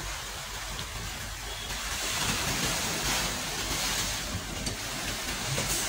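Steady rushing noise of a moving train, a low rolling rumble mixed with wind.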